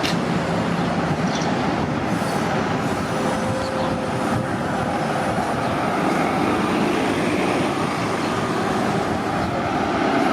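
Transit buses running in a bus terminal: steady engine and traffic noise, with a brief high hiss about two seconds in.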